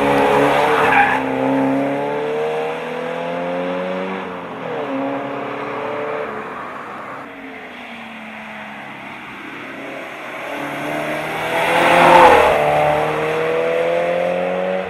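Toyota GT86's flat-four engine breathing through a Ragazzon stainless steel exhaust under hard acceleration, the note climbing in pitch, dropping at shifts and climbing again. It is loudest as the car passes close, about a second in and again around twelve seconds in.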